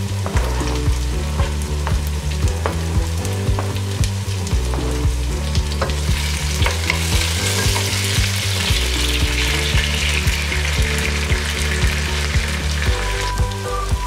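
Diced onions and tomatoes sizzling in hot oil in a pot, stirred with a wooden spoon, with the sizzle strongest in the middle. Background music with a steady beat plays throughout.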